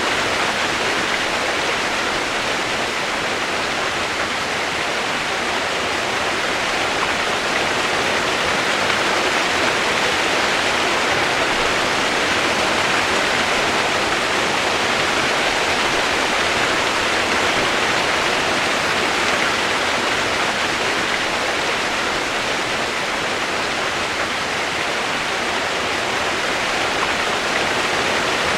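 Steady rushing water, like a waterfall or fast stream, an even hiss with no breaks.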